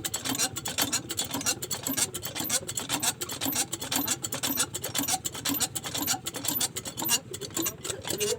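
Small diesel engine driving a well water pump, running with a fast, even, rhythmic clatter.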